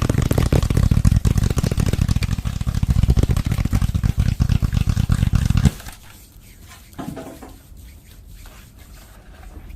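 Close-miked ASMR finger sounds: a dense, rapid run of fingers working at the microphone that stops abruptly about six seconds in, followed by a few faint, light touches.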